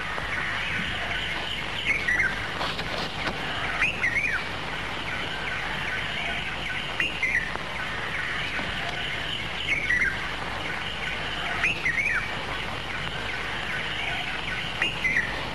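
Birds chirping: short calls every two or three seconds over a steady background hiss.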